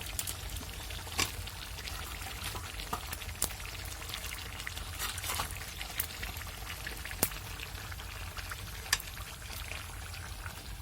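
Deshi chicken pieces sizzling in hot oil and spice masala in a pan: a steady sizzle with sharp crackling pops every second or two.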